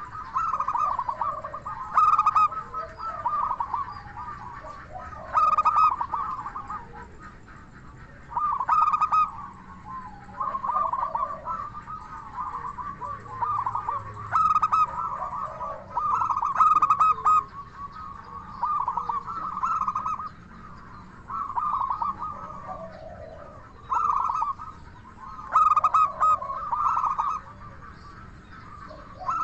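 Local-strain zebra doves (perkutut) cooing: loud phrases of rapid stuttering coos, each a second or so long, repeat every two to three seconds, with softer lower coos between them.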